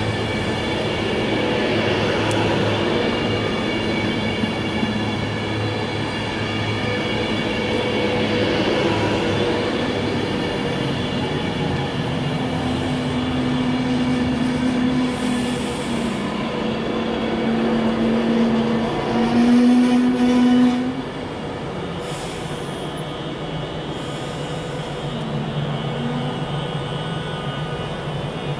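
Class 390 Pendolino electric train moving slowly past at the platform, its equipment whining with several steady tones. A louder low whine comes in around the middle and cuts off sharply about two-thirds of the way through, leaving a steady hum as the train all but stops.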